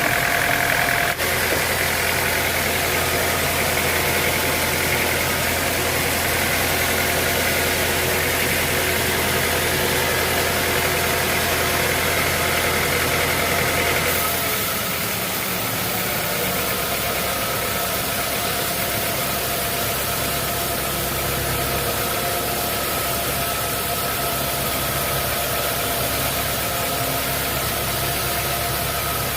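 Sawmill machinery running steadily with an engine-like hum. About halfway through, the hum shifts lower and the sound gets a little quieter.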